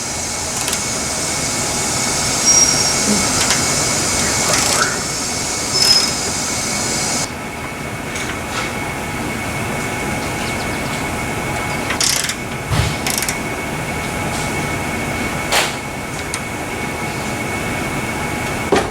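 Workshop background: a steady hum with a high hiss that cuts off suddenly about seven seconds in, and scattered metallic clicks and knocks from hand-tool work on a car's suspension.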